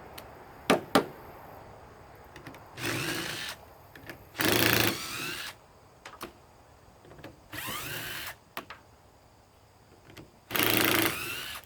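Cordless 3/8-inch-drive impact wrench run in several short bursts of about a second each, its motor whirring up in pitch each time as it works fasteners loose; the bursts about five seconds in and near the end are the loudest. Two sharp clicks about a second in.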